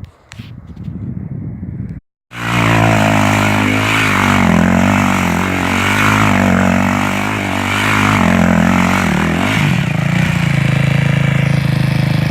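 Motorcycle engine running loudly, its pitch rising and falling as the throttle is worked, then holding a steadier, higher note near the end. It is preceded by a couple of seconds of low rumbling noise and a short cut to silence.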